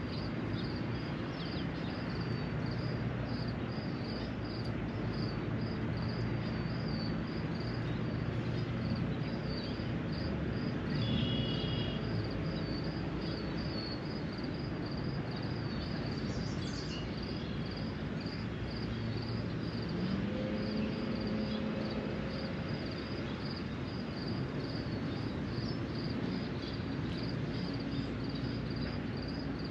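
Steady hiss of rain with a high, even chirping that repeats about twice a second throughout, and a couple of brief bird calls. A low hum rises in pitch about twenty seconds in.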